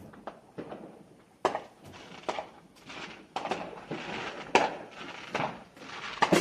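Fireworks going off, a dozen or so sharp pops and cracks at irregular intervals.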